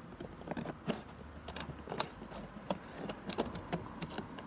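Scissors snipping across a plastic 2-liter soda bottle: irregular sharp snips and clicks of the plastic, a few each second.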